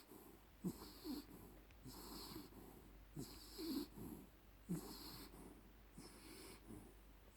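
A small Jack Russell–Chihuahua mix dog snoring in its sleep: quiet, regular snores about every second and a half, each breath with a low snuffling rasp.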